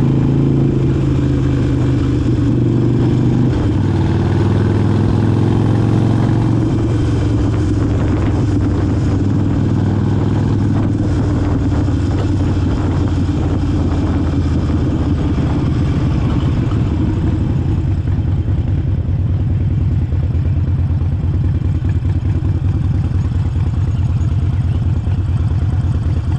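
Harley-Davidson Forty-Eight's air-cooled V-twin running, held at raised revs for the first few seconds, then dropping to a steady, pulsing idle.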